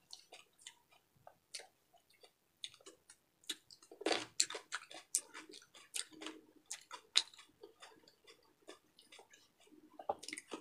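A person chewing food close to the microphone: a scatter of short, wet mouth clicks and smacks, busiest around four to eight seconds in.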